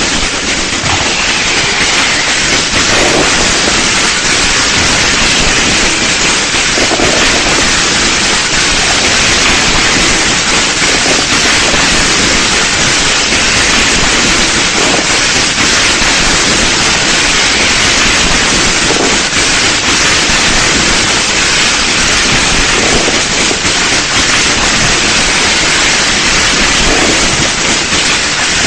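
Dense, continuous fireworks crackle, merging into a steady hiss-like roar with no single bangs standing out.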